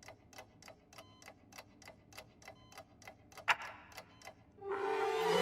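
Cartoon sound effect of a clock ticking quickly and evenly, about five ticks a second. One much louder tick or knock comes about three and a half seconds in, and the ticking then fades. Near the end a louder hissing sound with a low steady tone builds up.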